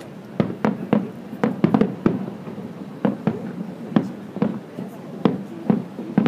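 Fireworks bursting in quick, irregular succession: a dozen or more sharp bangs over a few seconds, with voices in the background.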